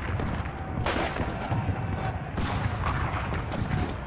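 Battle sound effects: gunfire and blasts over a steady low rumble, with two heavy blasts about a second in and again past the middle.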